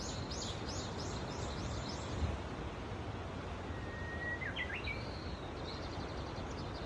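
Small birds calling: a quick run of high, down-slurred chirps at about three a second, then a thin whistled note that breaks into a brief warble, and more high notes near the end. A steady low rumble of background noise lies under it all.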